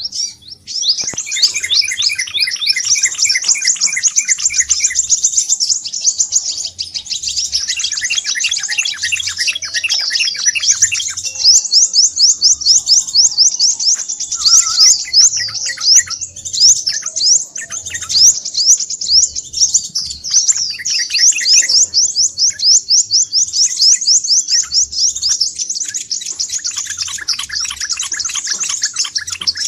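Crimson sunbird (sepah raja) calling noisily: a dense, unbroken stream of rapid, high-pitched chirps and trills, with several calls overlapping.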